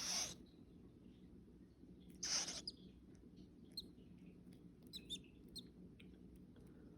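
Baby bird giving a few short, high peeps in the second half. Two louder short hissing noises come right at the start and about two seconds in.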